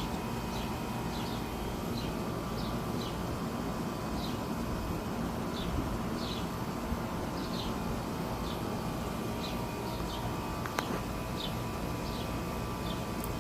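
Steady background rumble with a small bird chirping over it, short high notes repeated irregularly about once or twice a second. One sharp click sounds near the end.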